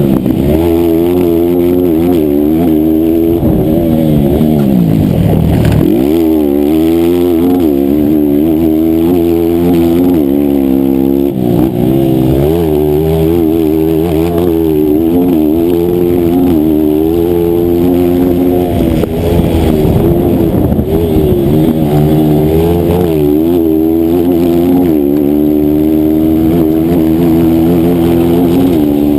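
160cc single-cylinder four-stroke race motorcycle engine run hard: the revs keep climbing and falling through gear changes, with a deep drop and climb back about four to six seconds in, as when braking into and powering out of a corner.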